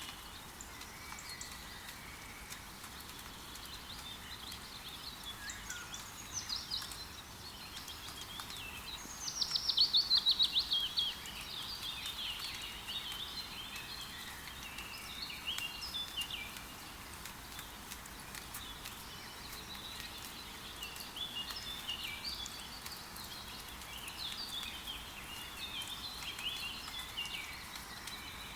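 Steady rain hiss under many songbirds calling and singing. About nine seconds in, one bird gives a fast trill of rapid notes that falls in pitch over about two seconds, the loudest sound in the stretch.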